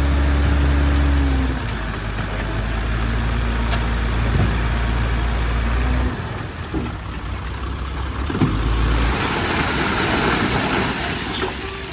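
Heavy diesel earthmoving machinery running, its engine note dropping about a second and a half in and again about six seconds in. A rushing noise rises and fades near the end.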